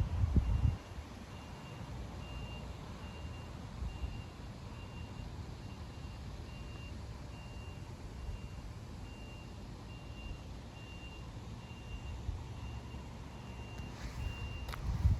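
A vehicle's reversing alarm: a single high beep repeating at an even pace, stopping about half a second before the end, over a low rumble.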